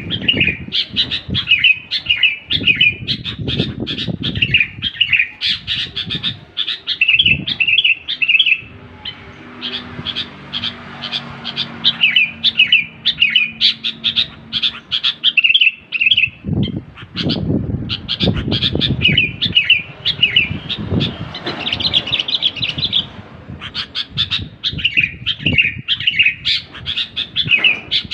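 Sooty-headed bulbul singing in long runs of quick, bright chirping phrases, nearly nonstop, with a short pause about eight seconds in. Low thumping sounds underneath at times.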